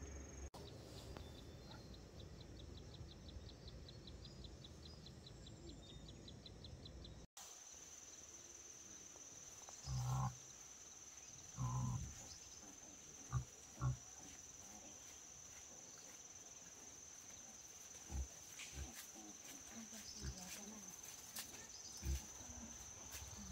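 Insects chirping: a fast, even, pulsing trill for the first several seconds, then a steady high-pitched insect drone. Several short low thuds stand out over it, the loudest about a third of the way in.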